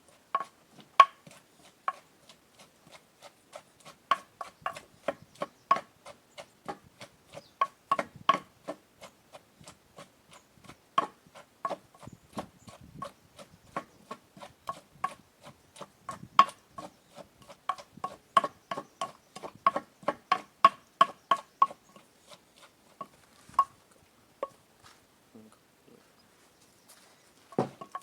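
Papaya salad being pounded and tossed in a mortar with a pestle: a steady run of quick knocks, about two to three a second, each with a short ring, thinning out near the end.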